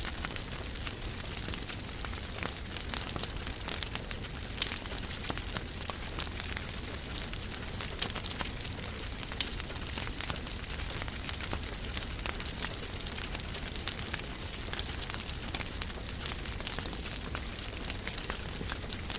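Wood fire burning in a fireplace, a steady hiss with frequent small crackles and a few louder pops, the sharpest about four and a half seconds in and again about nine seconds in.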